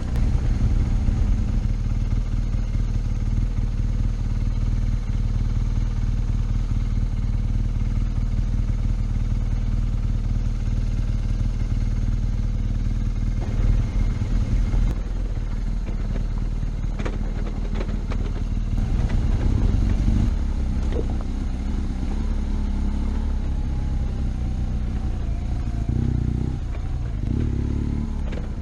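BMW R1200GS Adventure's boxer-twin engine running while under way, with some knocks and clatter in the middle and the engine note falling in the second half.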